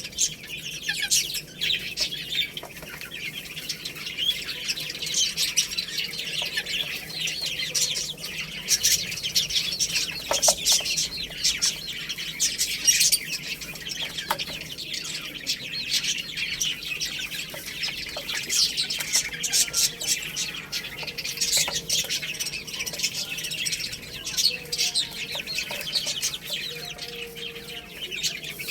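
Baby chicks chirping, a dense and continuous chorus of short high peeps from many birds at once.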